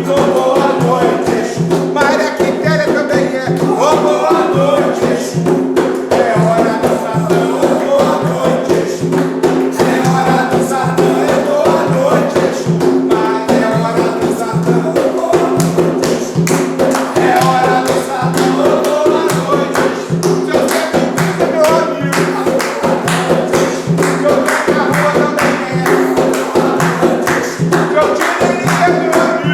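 A sung ritual chant (ponto) with voices carrying a melody over fast, steady hand percussion with a tambourine-like jingle.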